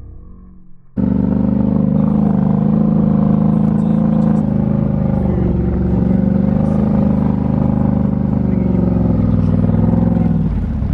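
Turbo side-by-side's engine running hard at high revs, its pitch wavering slightly. It starts abruptly about a second in and its pitch drops near the end.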